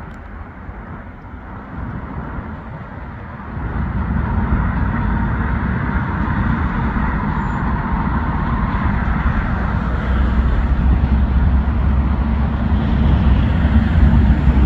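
Passenger train rumbling across a steel truss railway bridge, growing louder about three and a half seconds in and then running on steadily.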